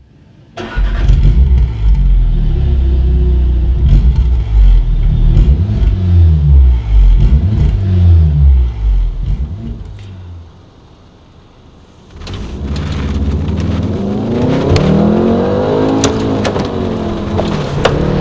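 VW Golf R Mk7's turbocharged 2.0-litre four-cylinder engine revving up and dropping back again and again through manual gear changes. It eases off for a couple of seconds about ten seconds in, then pulls hard again, climbing steadily in revs.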